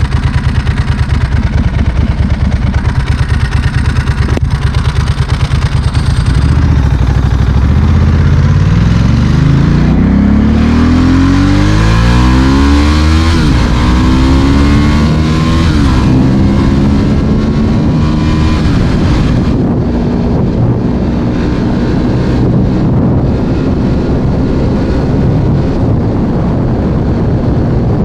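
Ducati Monster S4R's L-twin engine through a straight Mivv exhaust: a pulsing, lumpy idle for the first few seconds, then revving up as the bike pulls away, rising in pitch, dropping at a gear shift and rising again. From about halfway it settles into steady cruising.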